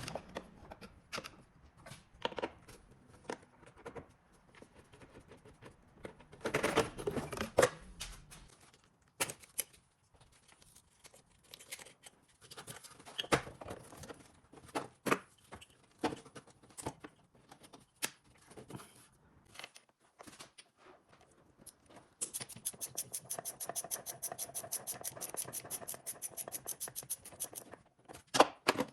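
Hand work on car parts: scattered clicks, taps and scrapes of tools and plastic or metal parts, with a louder rustle about seven seconds in. Near the end comes a fast, even clicking for about five seconds.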